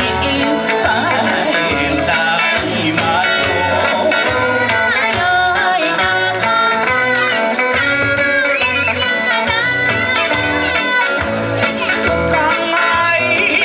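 Kawachi ondo bon-dance music: a singer's voice over plucked guitar and a steady drum beat about twice a second.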